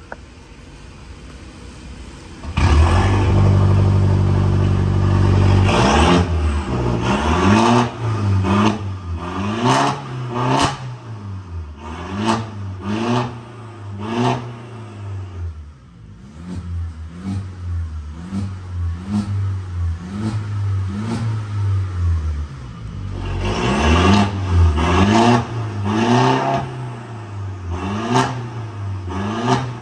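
Mercedes-Benz C180 Coupe engine heard through an aftermarket Emil exhaust. About two and a half seconds in it jumps to a loud steady note, then is blipped in quick repeated revs, roughly one a second, with a few sharp cracks. The revs get louder again near the end.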